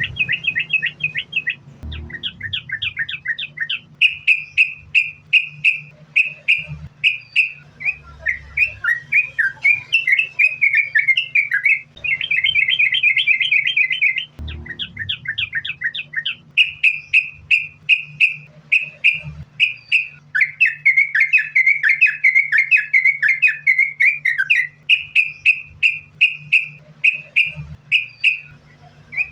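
Yellow-vented bulbul (trucukan) singing in long, unbroken runs of quick, bubbly chirping and warbling phrases, repeated almost without pause.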